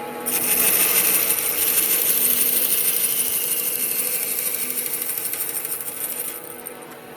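A power tool working wood, a bright hissing whine that starts just after the beginning, sags slowly in pitch and cuts off suddenly near the end.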